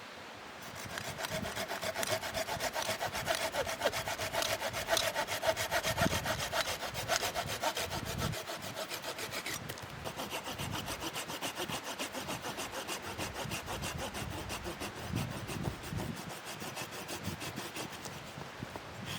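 Hand saw cutting through firewood in quick, even back-and-forth strokes. The saw's ringing tone shifts higher about halfway through.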